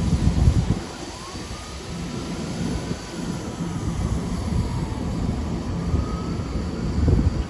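Long Island Rail Road train passing with a continuous low rumble that swells near the start and again about seven seconds in. A faint whine rises and falls in pitch over it.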